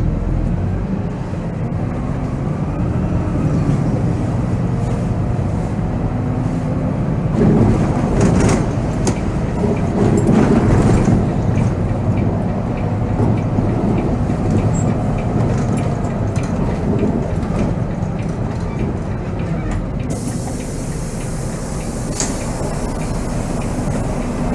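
Volvo B7R coach's six-cylinder diesel engine running under way, heard from the driver's cab with clicks and rattles from the coach around it. About twenty seconds in, a steady high hiss starts and carries on.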